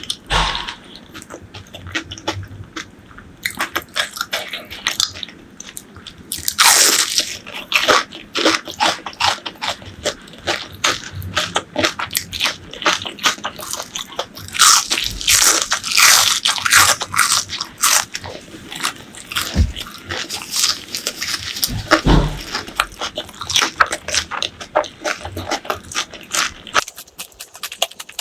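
Close-miked eating of crunchy fried food: loud crunching bites and chewing in irregular runs, with the loudest clusters about a quarter of the way in and around the middle.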